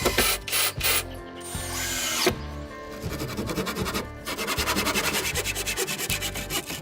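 Hand tool scraping or rasping on wood, with irregular strokes at first and then a fast, even run of strokes in the second half, over background music.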